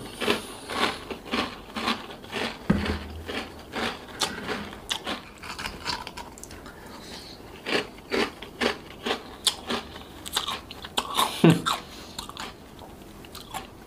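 Close-up chewing of a mouthful of chocolate spread with crunchy chocolate cereal balls: a run of crisp, irregular crunches several a second, easing off briefly around the middle before picking up again.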